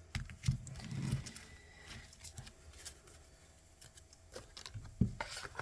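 Tarot and oracle cards being handled and gathered up: light rustles and taps of card stock, with a couple of louder taps about five seconds in.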